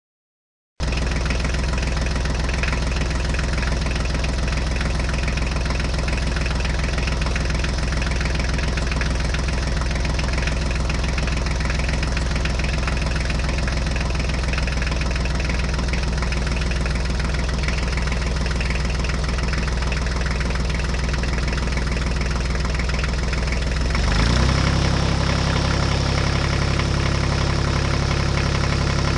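Tractor diesel engine running steadily, with a low chugging; the engine note shifts about 24 seconds in.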